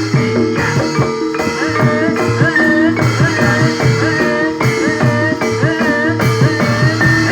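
Barongan accompaniment music: a fast, steady pattern of repeated struck metal notes over drum strokes, with a wavering, bending melody line above.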